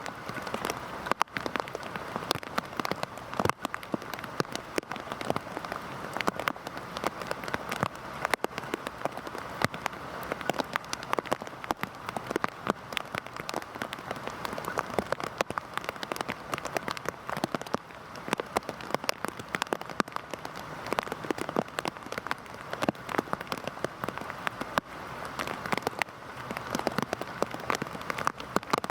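Heavy rain falling steadily, with many separate drops striking close by in a dense, continuous hiss.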